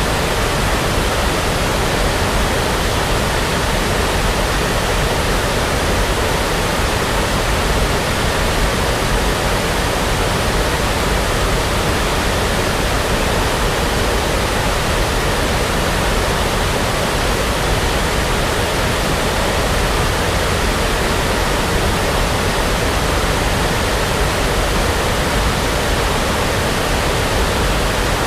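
Steady brown noise: an even, unchanging rushing hiss with no events in it.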